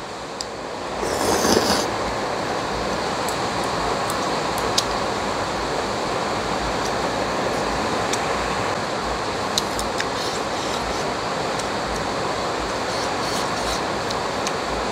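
Heavy rain pouring down, a steady even hiss, with a short louder rush about a second in and a few faint clicks.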